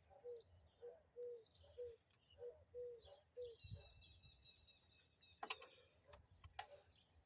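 A bird calling in the background: a steady run of short, low notes, about two a second. A thin high tone is held for about a second and a half midway, and there are two sharp clicks near the end.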